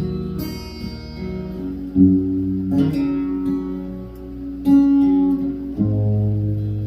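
Acoustic guitar playing an instrumental break in a country song, chords struck every second or two and left ringing.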